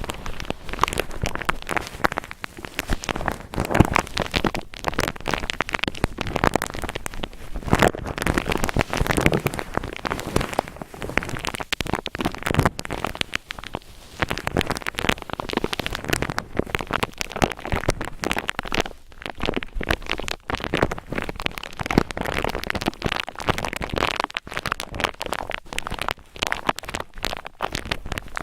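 A cotton ball rubbed roughly against the microphone: dense, continuous crackling and scratching fibre noise with no pauses.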